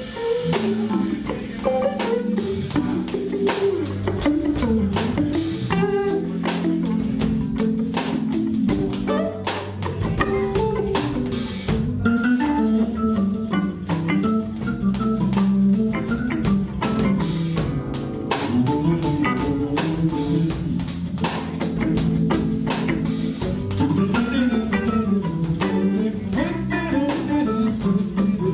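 Live instrumental passage of a slow soul ballad played by a trio: Hammond B3 organ holding sustained chords, guitar playing melodic lines, and drums keeping a steady beat with cymbals.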